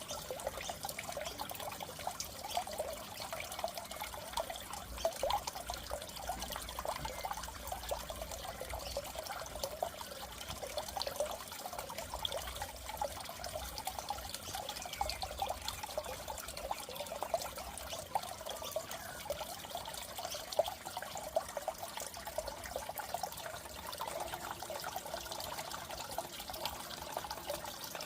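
Goldfish aquarium water trickling and bubbling steadily, a constant stream of small splashes and pops.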